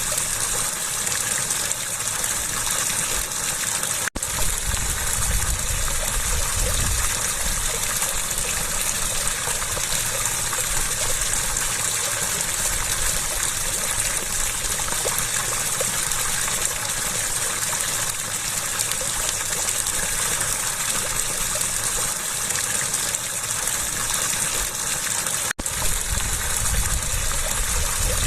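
Water rushing and splashing steadily. Two momentary breaks, about four seconds in and near the end, sound like cuts between recordings.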